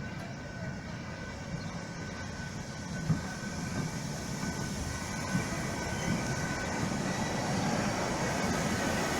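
A train approaching on the line, its running noise growing steadily louder, with a thin steady high tone above the low rumble.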